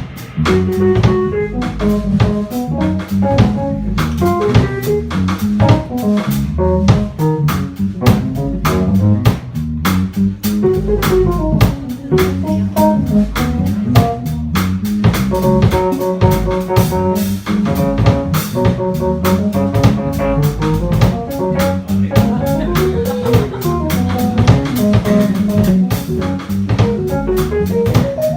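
Live jazz band playing: guitar melody over bass, piano and a drum kit keeping a steady beat.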